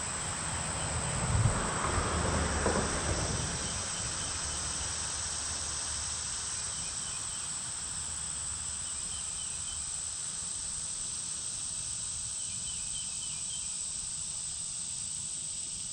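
Steady high-pitched drone of insects, with short faint chirping trills now and then. A few soft rustles and bumps sound about one to three seconds in.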